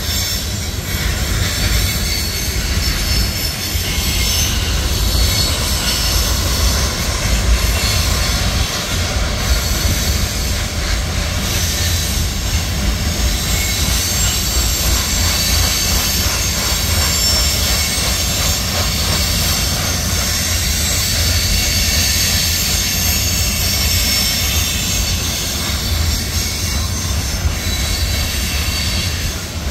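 Freight train of hopper cars rolling past, its steel wheels squealing against the rails in several high, shifting tones over a steady low rumble.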